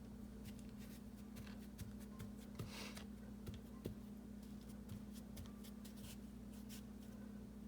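Faint scraping and scattered light clicks of hand work setting river rocks in mortar, with one longer scrape about three seconds in, over a steady low hum.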